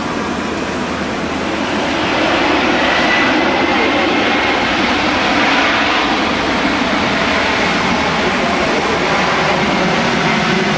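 Aircraft engines running at high power, a loud steady noise that swells about two seconds in, with a faint whine rising briefly.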